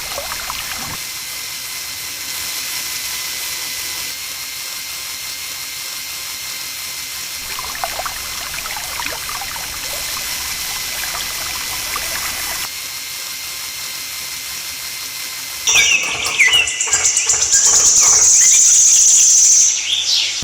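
Water trickling and splashing in a steady run. About three-quarters of the way through it gives way to a loud, high-pitched whine with clicking that stops shortly before the end.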